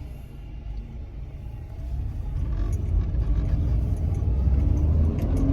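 Subaru's 2.5-litre four-cylinder engine and road rumble as the car drives off, the low rumble growing louder from about two seconds in as it picks up speed.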